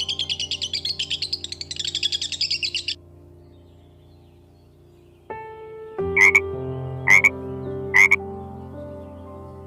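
Animal calls: rapid high-pitched chirping that stops about three seconds in, then, after a short lull, three short sharp calls about a second apart over background music.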